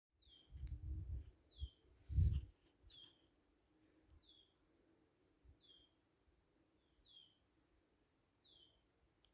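A songbird repeating a two-note call, a short high note then a falling one, about once every second and a half. Low rumbling thumps in the first couple of seconds, the loudest about two seconds in.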